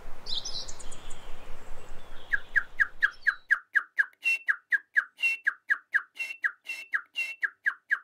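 Bird calling: a few high chirps at first, then from about two seconds in a rapid, even series of short falling notes, about four a second, some topped by a higher note.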